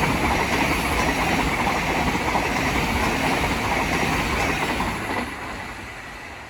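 Thameslink Class 700 electric multiple unit passing through the station, a steady rush of wheel and rail noise that fades away from about five seconds in.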